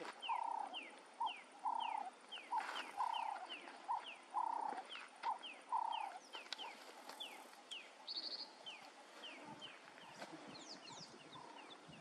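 Wild birds calling in the bush: a repeated phrase of a short low note and a quick falling whistle, about one and a half a second. It fades after about six seconds, while fainter falling whistles go on.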